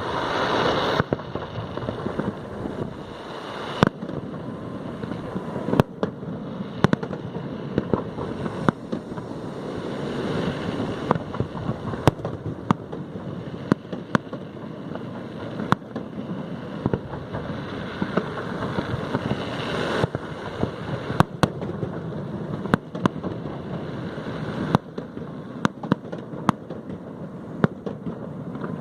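Fireworks display: sharp bangs of bursting shells at irregular intervals, roughly one every second or so, over a steady rushing noise.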